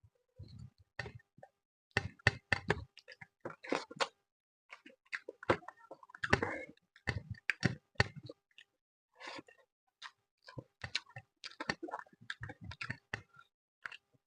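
Close-up eating sounds of fish with rice: chewing with many short, sharp mouth clicks coming in irregular clusters.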